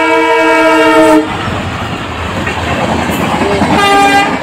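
Train horn sounding a loud, steady multi-note blast that stops about a second in, followed by the rumble and rattle of passenger coaches running past close by. A second, shorter horn blast sounds near the end.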